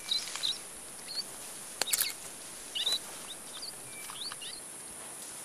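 Small birds chirping in short, high calls and quick glides scattered through, over a steady background hiss, with a couple of sharp clicks about two seconds in.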